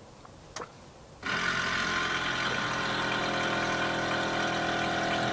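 Rear air-suspension compressor switching on about a second in and running with a steady motor hum, inflating the car's rear air shocks. A short click comes just before it starts.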